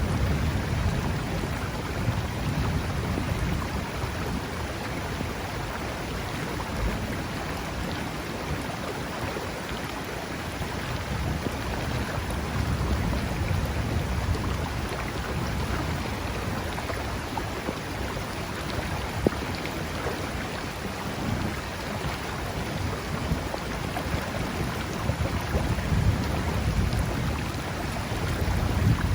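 Steady rain over a flowing river, with low rumbles of thunder that swell and fade a few times, strongest near the start and near the end.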